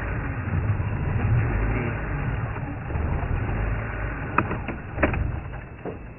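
Safari game-drive vehicle's engine running with a low rumble as the vehicle is turned and repositioned. A few sharp snaps come near the end.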